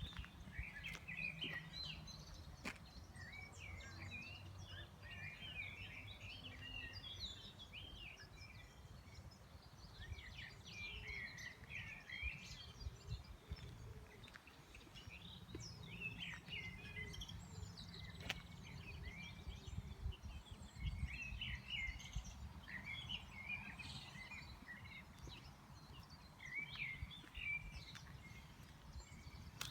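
Small birds chirping and twittering over and over, over a steady low rumble, with a couple of sharp clicks.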